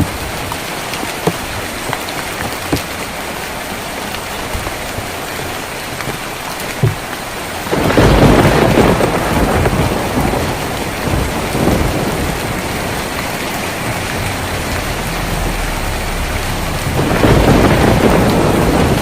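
Steady rain on a tin roof, with scattered sharp drip ticks. Thunder rumbles in about eight seconds in and slowly fades, and rumbles again near the end.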